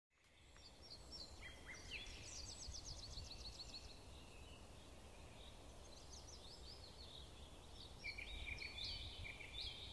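Faint birdsong fading in: several birds chirping, with quick trills and short whistles, over a low background rumble.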